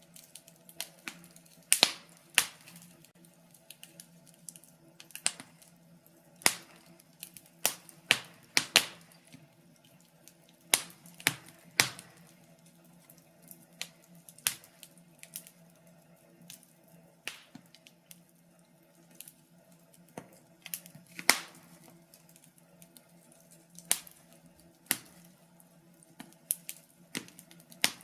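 Wood fire crackling: irregular sharp pops and snaps, roughly one a second, over a faint steady hum.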